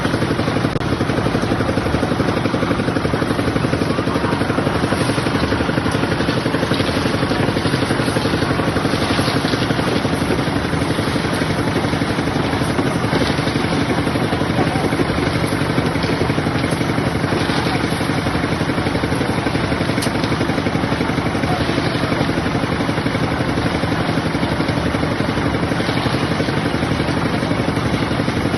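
Engine of a site concrete mixer and lift running steadily, the machine mixing and hoisting the load.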